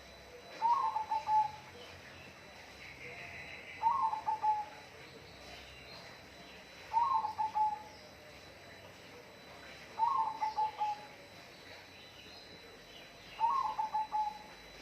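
A dove cooing: five phrases about three seconds apart, each a higher opening note followed by a quick run of four or five short coos that fall slightly.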